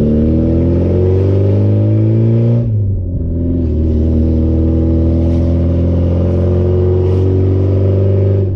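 Loud 1989 Porsche 944 four-cylinder engine through a straight-piped exhaust, pulling under acceleration with the revs climbing steadily. About three seconds in there is a short break as the revs drop for a gear change, then the engine pulls and climbs again.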